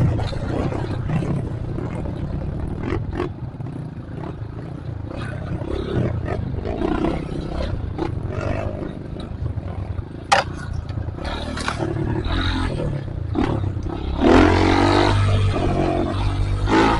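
Trail motorcycle engine running under way, with scattered clicks and knocks, rising into a louder rev about fourteen seconds in.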